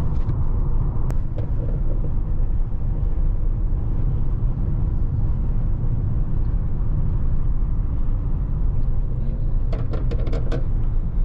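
Mercedes-AMG GT63 S's twin-turbo V8 under way at a steady cruise: a continuous low rumble with road noise. A quick run of sharp clicks comes near the end.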